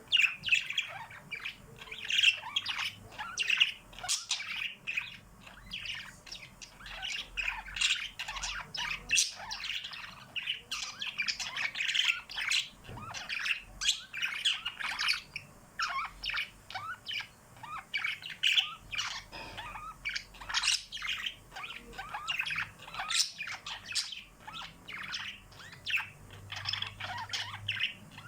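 Several small pet birds chirping and twittering nonstop, with many short, high calls overlapping one another.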